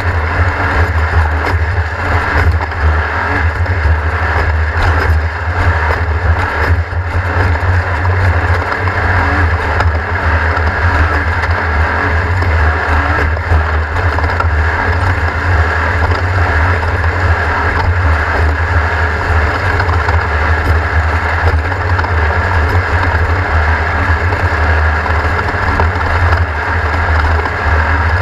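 Race car engine running steadily under load, a loud, even low rumble with no clear revving up or down.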